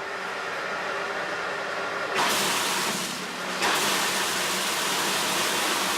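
A loud, steady rushing hiss, like escaping gas or air. It grows louder about two seconds in, dips briefly, then comes back as strong.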